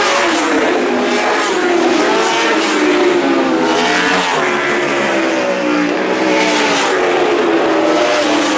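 Several superbike racing motorcycles going past in quick succession at race speed, their overlapping engine notes rising and falling in pitch as they accelerate and pass.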